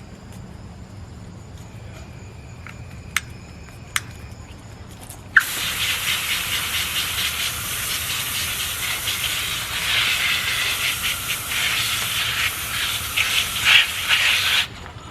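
Running water spraying, likely a tap or hand sprayer rinsing the dog in her bath; it starts suddenly about five seconds in and cuts off shortly before the end. Two sharp clicks come just before it.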